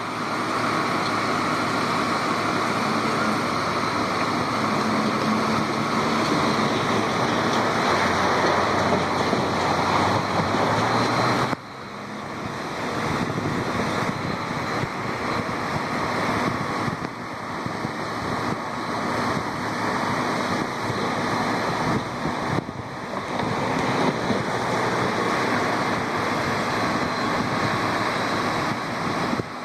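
Steady rush of water falling through the dam, changing abruptly twice, about a third and three quarters of the way through.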